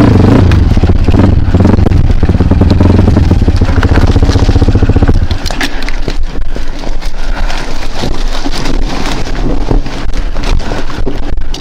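Kawasaki KLX dirt bike's single-cylinder engine running hard under throttle, then backing off suddenly about five seconds in to a lower, rougher note with crackling noise over it.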